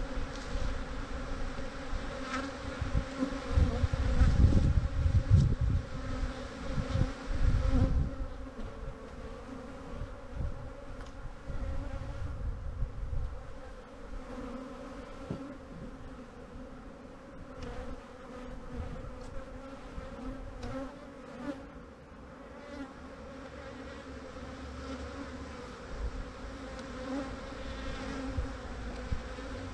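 Swarm of defensive honeybees buzzing in the air, a steady hum of many wingbeats from a colony that has just been broken down and is trying to sting. Low rumbling and knocks come through strongly in the first eight seconds.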